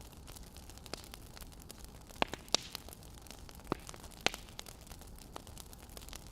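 Wood fire crackling: irregular sharp pops over a steady faint hiss, the loudest few coming between about two and four and a half seconds in.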